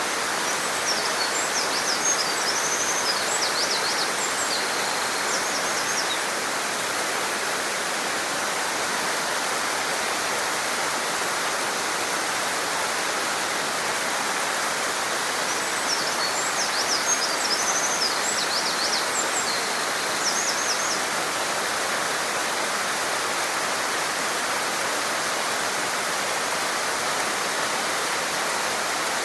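Eurasian wren singing two long, fast songs of high trills and notes, each about five seconds, the second starting about fifteen seconds in. Behind it is the steady rush of a stream in a small gorge.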